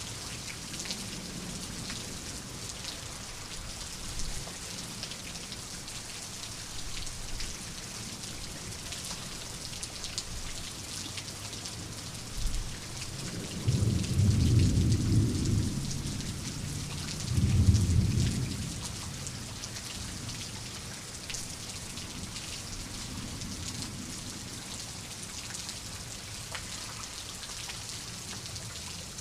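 Steady rain falling, with fine patter of drops over a continuous hiss. About halfway through, thunder rumbles low and loud in two heavy rolls a few seconds apart, then fades back under the rain.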